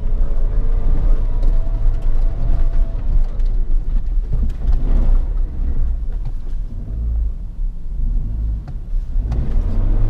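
Suzuki Jimny's 1.5-litre four-cylinder engine running at low revs with a heavy low rumble, with a few brief knocks over the drive.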